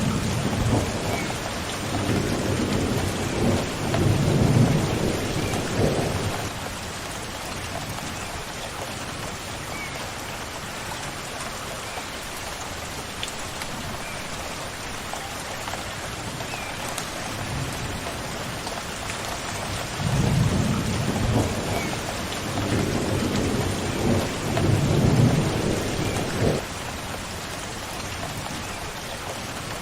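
Steady rain falling, with two long rolls of thunder rumbling low: one at the start lasting about six seconds and another about twenty seconds in. Faint short bird chirps come through now and then.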